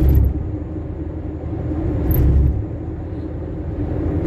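Fiat Fiorino 1.4 van driving on a highway, heard from inside the cab: a steady engine and road drone, with a deeper rumble swelling up for about half a second three times, roughly every two seconds.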